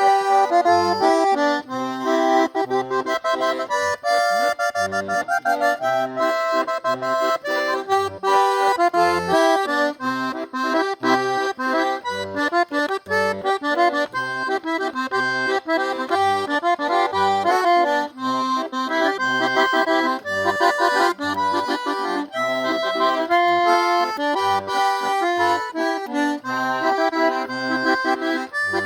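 Eight-bass diatonic button accordion (gaita oito baixos) playing a busy tune: a fast run of melody notes over short bass notes pulsing at a steady beat.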